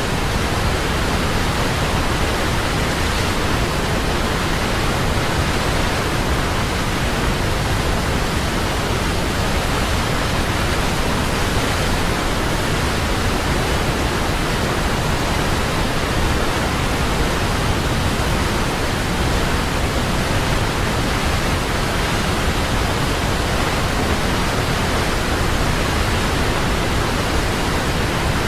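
Large waterfall: a steady, loud rush of falling water with no change.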